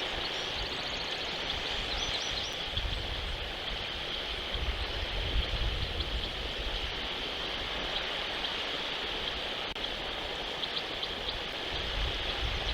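Steady rushing outdoor noise with patches of low rumble on the microphone, and a few faint high ticks near the start.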